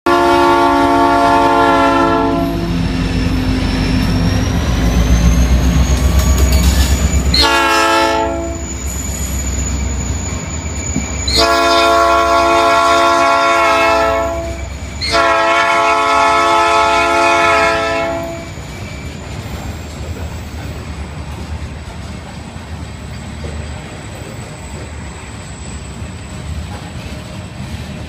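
Kansas City Southern diesel locomotive passing and sounding its air horn in four blasts: a long one, a short one about 8 seconds in, then two long ones close together, the last ending about 18 seconds in. A heavy engine rumble swells between the first two blasts, and after the horn stops the cars roll past steadily on the rails.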